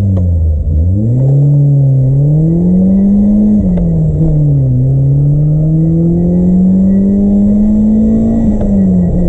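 BMW M3 engine under full-throttle acceleration, rising in pitch through the gears with a drop at each upshift: one about a third of the way in, a long pull after it, and another near the end.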